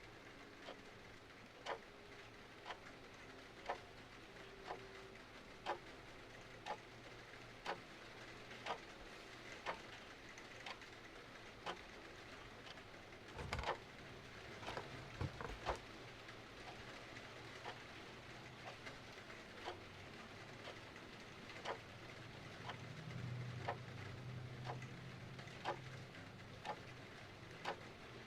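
A clock ticking about once a second over a steady patter of rain, with a few sharper crackles from a fireplace about halfway through.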